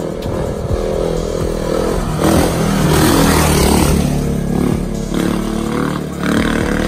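450cc dirt bike engine running and revving, its pitch shifting, getting loudest about two seconds in and easing off about four seconds in.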